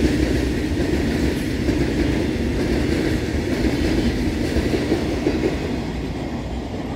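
Long freight train of covered goods wagons rolling past, a steady noise of steel wheels running on the rails that grows a little quieter toward the end.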